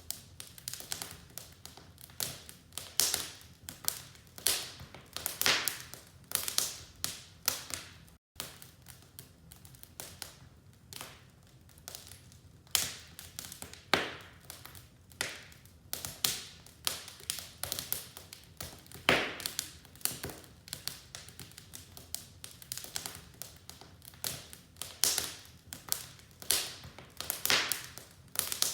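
Wood fire in a fireplace crackling, with irregular sharp snaps and pops over a faint hiss.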